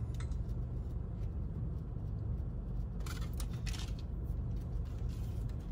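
Mouth sounds of chewing a fried chicken tender, with a few soft crisp crackles about three seconds in and again near the end, over a steady low hum in the car cabin.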